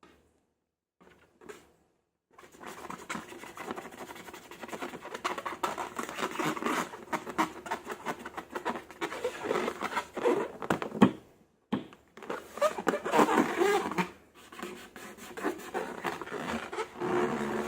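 Slime being squeezed and worked by hand: dense sticky crackling and squelching that starts after about two seconds of silence, with a brief break about two-thirds of the way through.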